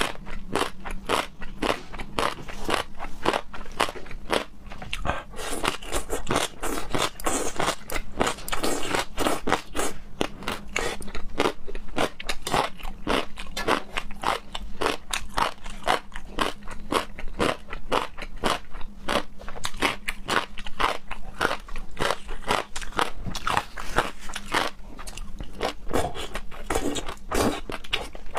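A person chewing and biting food, with a continuous run of crisp crunching and crackling clicks, several a second.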